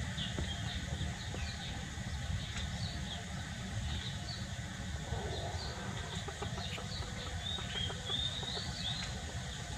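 Small birds chirping in quick short series over a steady low rumble.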